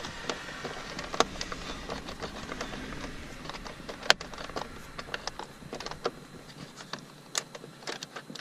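Scattered clicks and small knocks of plastic dashboard trim and wiring connectors being handled and unclipped by hand, with a few sharper snaps, the loudest about four seconds in.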